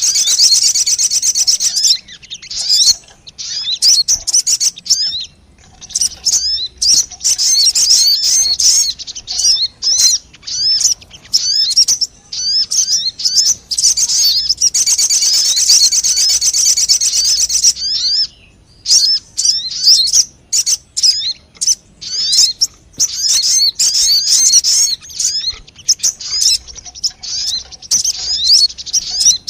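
Recorded lure call of the small bird known in Indonesia as sogon: rapid, high chirping and twittering in dense runs, broken by brief pauses every few seconds.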